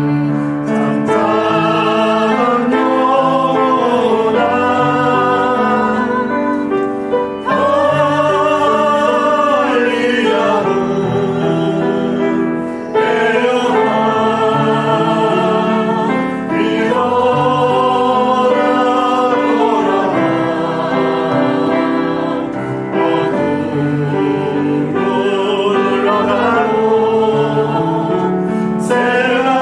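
A church praise team singing a worship song together, long held phrases over instrumental accompaniment.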